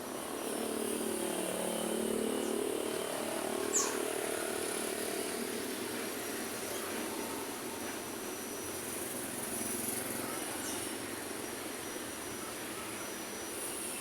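Road traffic passing at a city street bend. A heavy vehicle's engine runs by in the first few seconds, and there is one brief high squeak about four seconds in.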